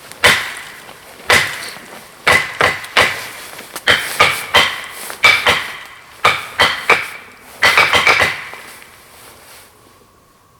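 A loud, irregular series of sharp knocks, about sixteen hard strikes over eight seconds, some in quick pairs and triplets, each with a brief ringing tail.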